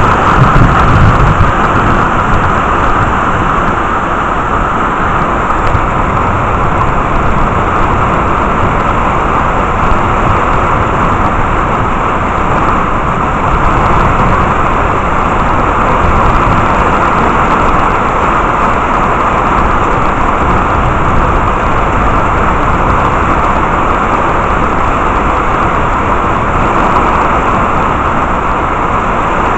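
Heavy rain falling steadily in a thunderstorm. The tail of a low thunder rumble fades out in about the first second and a half.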